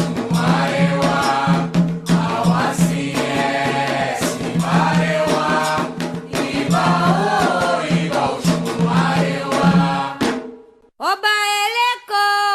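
A group sings a Candomblé chant in Yoruba for Xangô over rhythmic percussion. About ten seconds in, the song breaks off abruptly, and after a brief pause a single voice starts the next chant alone.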